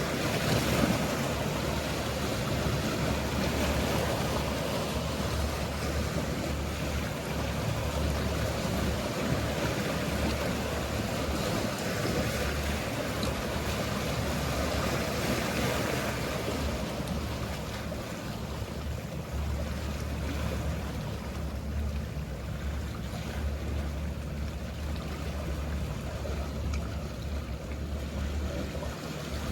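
Mediterranean sea waves washing in a steady wash, under a low hum of boat engines. The wash is fuller in the first half and eases somewhat after the middle.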